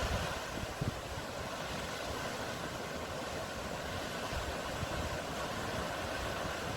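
Sea waves washing in a steady rushing noise.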